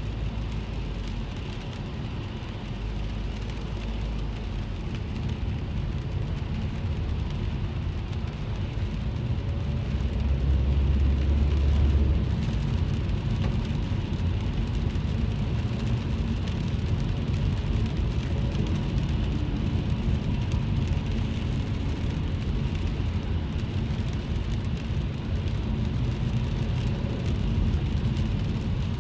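A car driving on a wet road in the rain, heard inside the cabin: a steady low rumble from the road and engine under an even hiss of rain and wet tyres. The rumble swells about ten to twelve seconds in.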